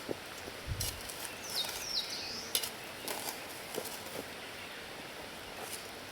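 Outdoor ambience with a bird giving two short high calls that slide downward, about a second and a half in, and a few light clicks or taps.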